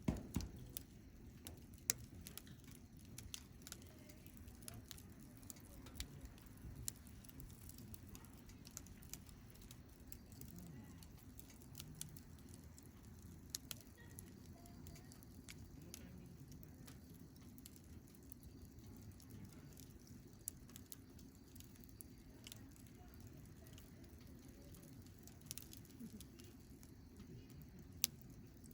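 Wood campfire crackling faintly, with scattered sharp pops over a low steady rumble; the loudest pops come right at the start, about two seconds in and near the end.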